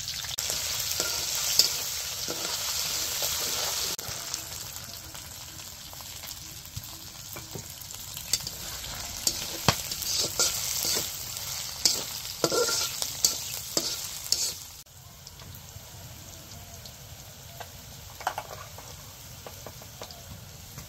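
Garlic and chillies sizzling in hot oil in an iron karahi, stirred with a metal spatula that scrapes and clicks against the pan. About 15 seconds in the sizzle drops abruptly to a quieter frying.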